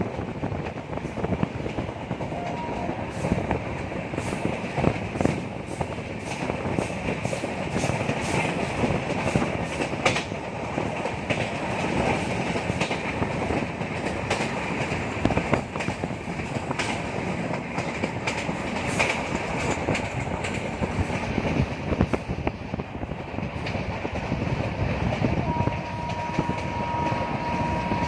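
Passenger train coaches running on the track, wheels clicking steadily over rail joints. A steady high-pitched tone joins about 25 seconds in.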